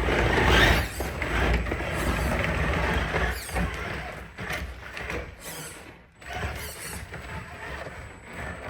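RC rock crawler's electric motor and geared drivetrain whirring and ratcheting as it crawls. It is loudest for the first few seconds, then quieter and uneven.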